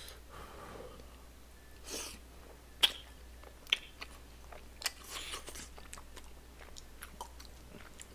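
Close-miked chewing of chewy rice cakes and fish cake in sauce: wet mouth sounds with a few sharp clicks, the loudest about three seconds in.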